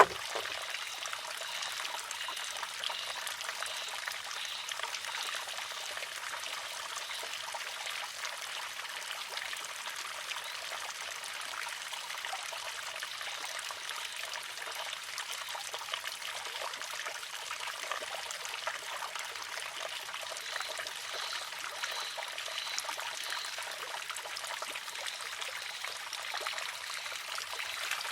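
Steady trickle of water pouring from a spout into a water-driven wooden shishi-odoshi, the arm filling between clacks.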